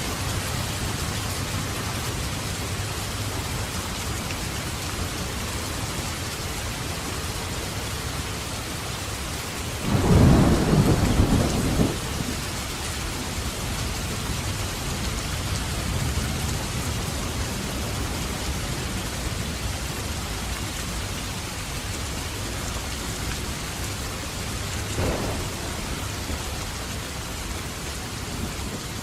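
Steady heavy rain hissing throughout, with a loud crack and rumble of thunder about ten seconds in lasting a couple of seconds, and a fainter thunder rumble near the end.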